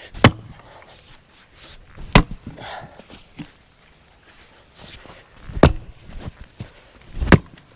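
Pieces of split firewood knocking against each other as they are stacked: four sharp wooden knocks, a second or two apart.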